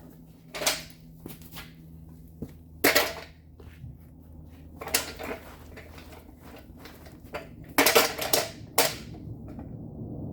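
Metal tools and parts clattering as they are handled: a few short clanks and rattles, the loudest about three seconds in and near the end.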